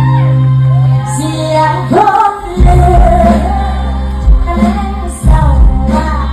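Live Isan mor lam band music with a woman singing the melody. A heavy, regular bass beat comes in about two and a half seconds in.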